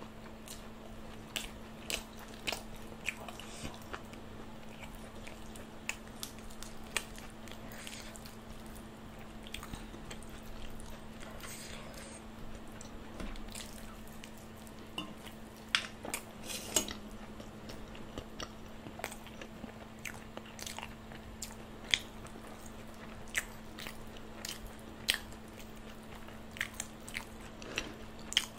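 Close-miked eating sounds: a person chewing with her mouth, with crisp bites and crunches and wet mouth clicks scattered irregularly throughout. A faint steady low hum runs underneath.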